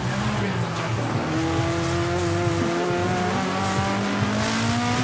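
Racing car engine running at high revs, its pitch holding steady and then slowly rising.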